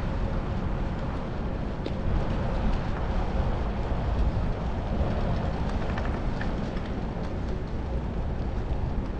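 Steady rushing noise of riding a fixed-gear bicycle on city streets: wind buffeting a chest-mounted camera's microphone, with tyre and traffic rumble underneath.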